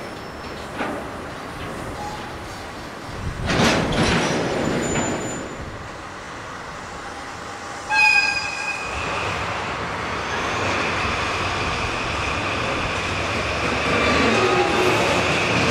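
Freight train of tank wagons rolling over jointed track, with a loud metallic clank about three and a half seconds in. About halfway through, the sound jumps to a pair of DD51 diesel-hydraulic locomotives working, their engines running under load and a steady high wheel squeal over the top, opened by a short high-pitched tone.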